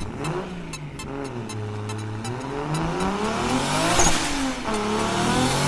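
Car engine revving up and down, its pitch climbing to a peak about four seconds in, then dropping and climbing again.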